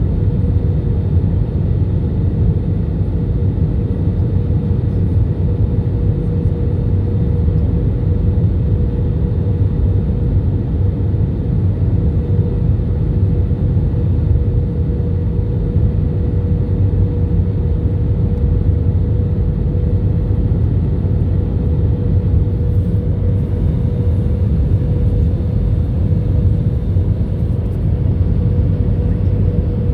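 Airliner cabin noise: a steady low rumble of engines and airflow with a constant mid-pitched hum on top.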